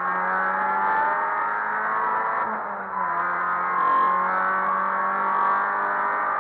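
Opel Astra GSi rally car's engine heard from inside the cabin, pulling hard under acceleration. Its pitch climbs, drops with an upshift about two and a half seconds in, then climbs again.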